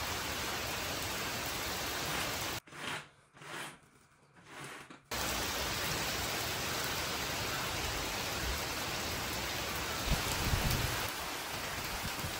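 Heavy rain falling steadily on a paved courtyard, an even hiss. It drops out almost completely for a couple of seconds near the start, then resumes, with a brief low rumble about ten seconds in.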